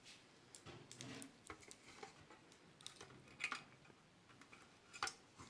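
Faint scattered clicks and light rustling of small parts and cord being handled during an electric iron's cord replacement, with sharper clicks about three and a half seconds in and again near the end.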